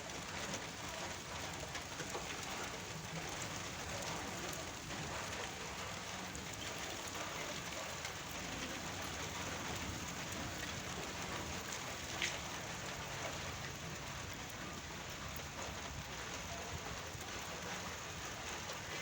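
Heavy rain falling steadily, with one sharp tick about twelve seconds in.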